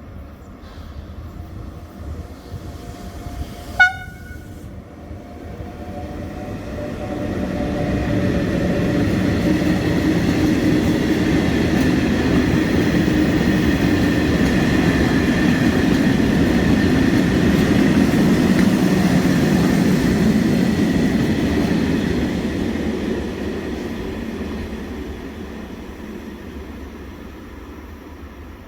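A train horn gives one very short, sharp toot about four seconds in. A train then passes: the rumble of the wheels on the rails builds up, holds for about fifteen seconds with a high steady whine over it, and fades away.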